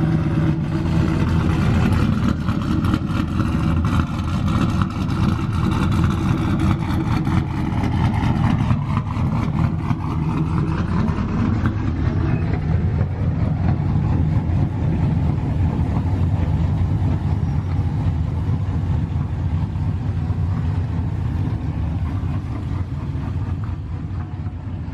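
A vehicle's engine and exhaust running steadily, the pitch drifting up and down, easing off slightly near the end.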